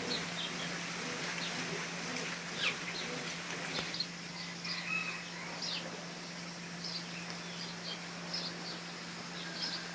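Several birds chirping, with short calls and quick chirps scattered throughout, over a steady low hum.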